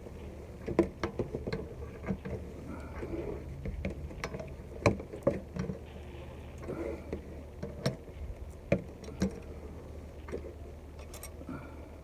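Scattered, irregular clicks and knocks of hands and tools working on a car's oil filter as the new filter is tightened, over a steady low hum.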